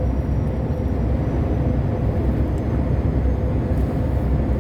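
Truck cab interior noise while driving on the highway: a steady low engine and road rumble, with a faint hum held on one note.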